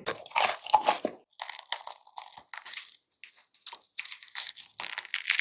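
Close-miked crunching and chewing of a fried, breaded cheese stick, with many quick irregular crackles as the crust is bitten and chewed.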